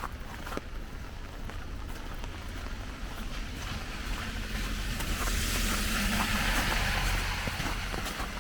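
A car passing on a wet street: tyre hiss on the wet road swells from about four seconds in, is loudest a couple of seconds later and starts to fade near the end, over a low engine rumble. Faint footsteps on wet slush are heard at the start.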